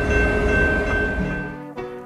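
Train running with a steady rumble and several held high tones, fading out about halfway through as orchestral music comes in.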